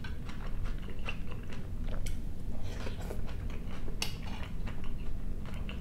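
A person chewing a mouthful of fried potatoes with chanterelle mushrooms, with soft wet mouth sounds and a few sharp clicks, the clearest about two and four seconds in as a spoon scrapes the plate.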